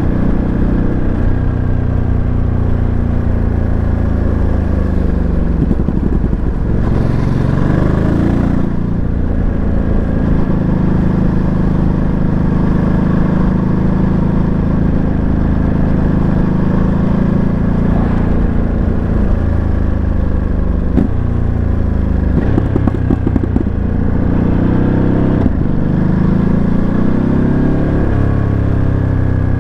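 Ducati Monster 937's Testastretta 937 cc V-twin, heard from on board while riding. The engine note climbs in pitch under acceleration, then breaks and drops at gear changes and when the throttle is rolled off, several times over.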